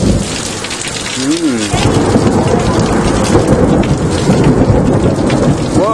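Torrential thunderstorm rain pouring steadily. About two seconds in, a loud clap of thunder breaks and rumbles on, following close after a bright lightning flash.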